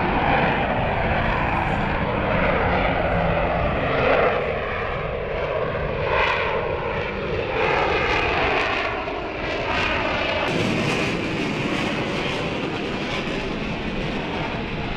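F-35 fighter jet in flight, its single F135 turbofan engine giving a loud, steady jet noise. A whooshing rises and falls in pitch as the jet passes, and the high hiss grows brighter about two-thirds of the way in.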